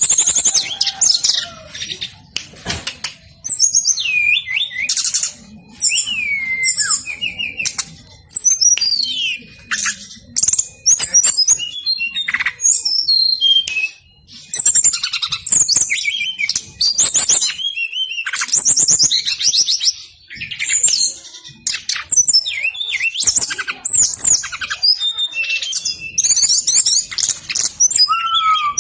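Brown-chested jungle flycatcher singing on and on: a rapid, varied stream of high whistled notes, sweeping slurs and fast trills, broken only by brief pauses.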